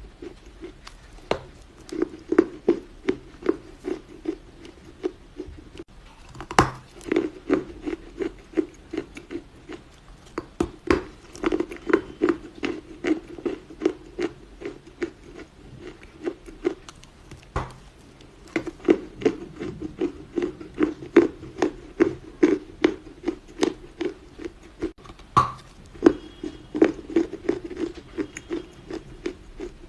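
Someone chewing pieces of Chinese loess clay close to the microphone: runs of soft crunches, several a second, broken by short pauses.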